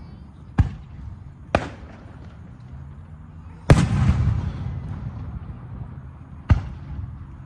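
Aerial fireworks shells bursting: four sharp bangs spread over several seconds. The third, just past the middle, is the loudest and leaves a long, fading low rumble.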